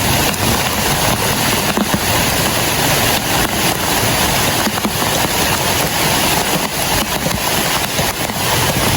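Heavy, steady rain: a dense, even hiss with no let-up.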